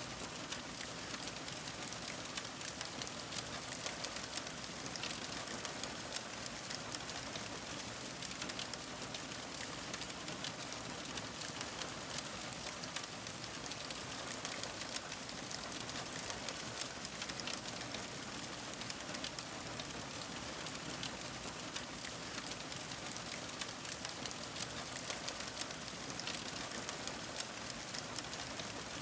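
Fire crackling steadily: dense, irregular small pops and snaps over a soft hiss.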